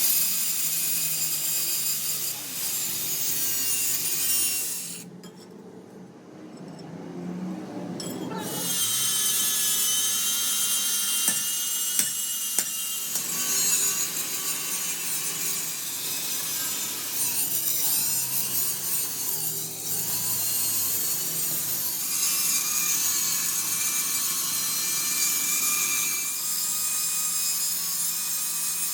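A power tool working steel, a continuous hiss with a high whine. It drops away for a few seconds about five seconds in, then runs steadily again.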